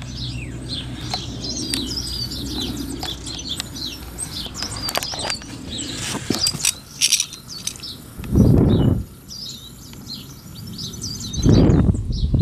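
Garden songbirds chirping and singing throughout, with two loud rushes of air, each about a second long, roughly eight and eleven and a half seconds in.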